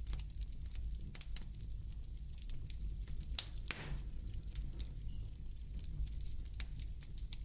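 Wood fire burning in a fireplace: a low steady rumble of flames with irregular sharp crackles and pops, and a longer hissing crackle about three and a half seconds in.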